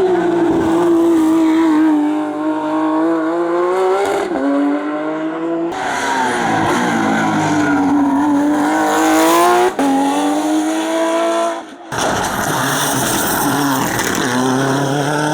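Racing car engines under hard acceleration, the pitch dipping and climbing again through gear changes. The sound changes abruptly about six and twelve seconds in as another car takes over.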